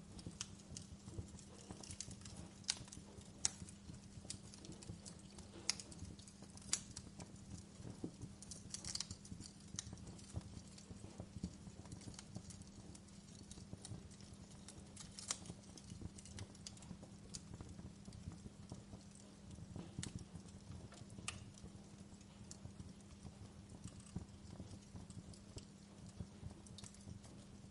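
Wood fire crackling in a fireplace: irregular sharp pops and snaps of burning logs, some loud and some faint, over a low steady hum.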